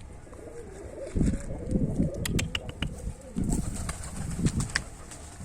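Domestic pigeons cooing several times in a row, low rolling calls, with a few sharp clicks from the birds in between.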